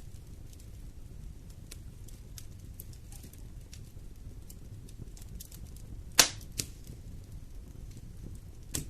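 Wood fire burning in a fireplace: a low, steady rumble of flames with scattered small crackles. About six seconds in there is a loud, sharp pop, followed by a smaller one, and another pop comes near the end.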